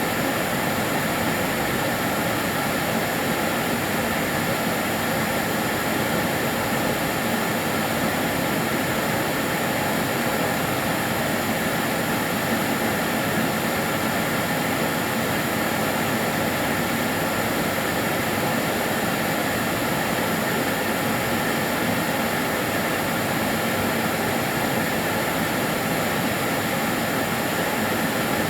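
Karcher DS 6 Premium water-filter vacuum cleaner running steadily, a constant rushing motor noise with a faint high whine, unchanging throughout.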